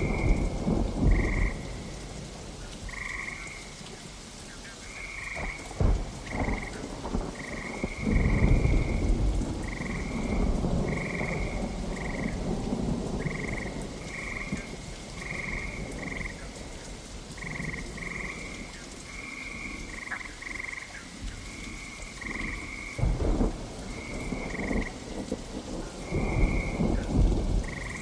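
Steady rain with several low rumbles of thunder. Frogs croak over it in short, high calls, about one or two a second.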